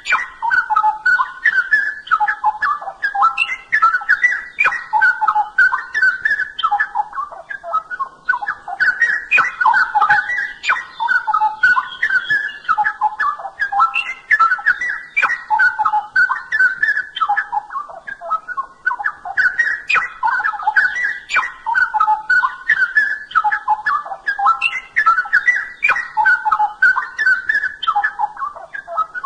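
Straw-headed bulbul (cucak rowo) singing: loud, rich whistled warbling phrases, one after another, with brief pauses about 8, 12 and 18 seconds in.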